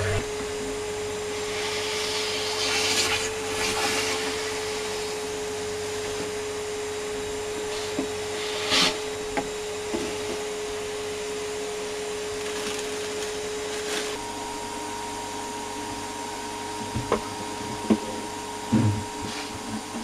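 Vacuum cleaner running steadily with a constant motor tone and rushing air, its suction restored after an improvised fix for a missing replacement bag. Its tone changes about two-thirds of the way through, and there are brief rushes of air and a few knocks near the end as the nozzle is worked.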